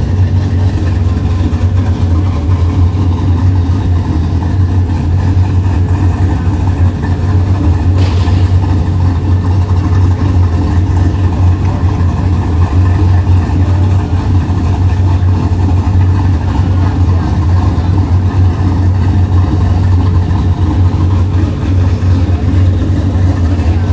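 A car engine idling steadily, loud and close, a low even note that neither revs up nor dies away.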